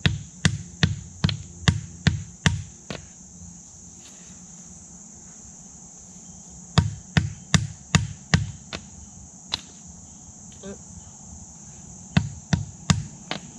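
A carved wooden stake being hammered into the ground: sharp knocks about two or three a second, in three runs with pauses between them. Insects drone steadily in the background.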